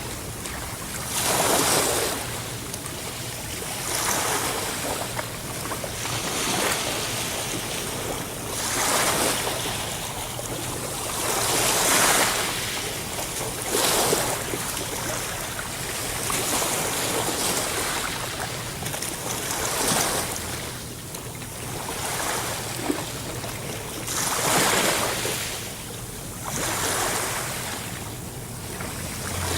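Sea waves breaking and washing in, a hiss that swells and falls away again every few seconds.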